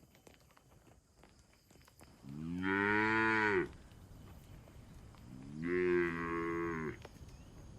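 Cow mooing twice: two long calls, each about a second and a half, roughly three seconds apart.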